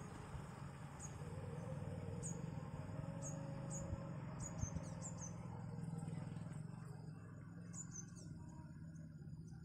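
Small bird giving short, high chirps that fall in pitch, about one a second and bunched in places, over a low steady rumble that fades a little near the end.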